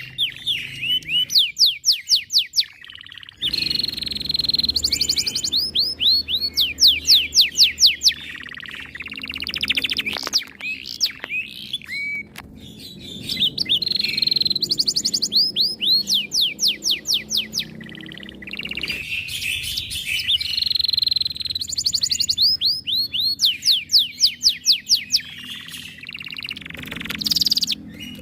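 Canary singing a long, loud song: runs of rapid repeated downward-sweeping notes, each run lasting a few seconds, broken by held high notes and short pauses.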